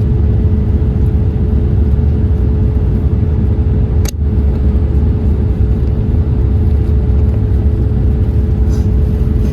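Steady cabin rumble inside a Boeing 787-8 airliner, engine and airflow noise with a constant hum over it, and one sharp click about four seconds in.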